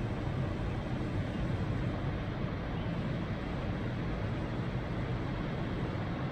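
Steady low rumble and rushing noise aboard a large cruise ship under way, with no distinct events.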